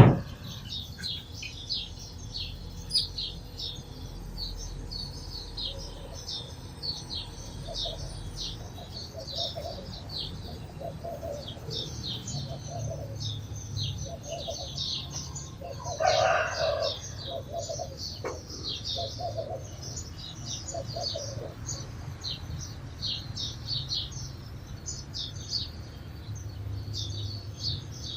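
A flock of sparrows chirping continuously in quick, short, high chirps. There is a sharp knock right at the start and a louder, lower call about sixteen seconds in.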